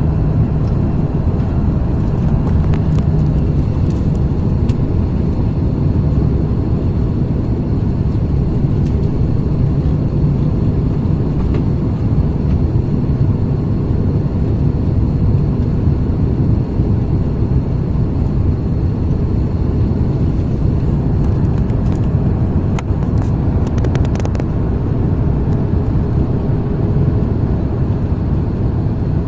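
Airbus A330-300 cabin noise: a loud, steady hum of the jet engines and airflow, with a few small clicks near the end.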